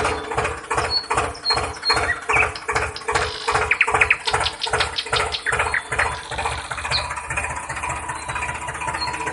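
A small motor running with a steady whine, under a rhythmic clatter of about four knocks a second that gives way to a steadier hum after about six seconds.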